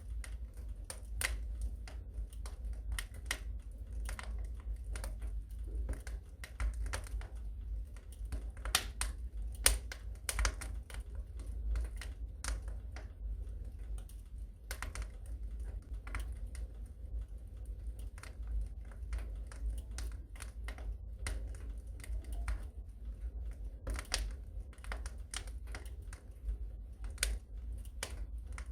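Fire in a fireplace crackling: irregular sharp pops and snaps, a few louder ones, over a steady low rumble.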